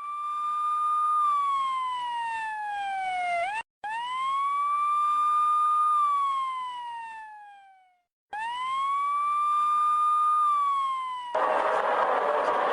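Police car siren wailing: each cycle rises, holds briefly, then falls slowly, three times over, with short breaks between. Near the end, louder road and engine noise comes in as the siren rises again.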